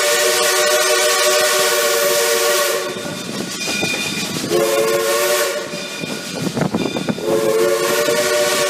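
Steam locomotive chime whistle sounding several notes at once: a long blast that ends about three seconds in, a short blast in the middle, and another long blast starting near the end. Between the blasts there is steam hiss and the rumble of the locomotive.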